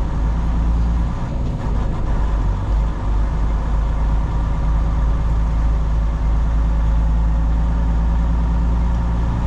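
Semi truck's diesel engine running steadily: a continuous low drone with no marked revving.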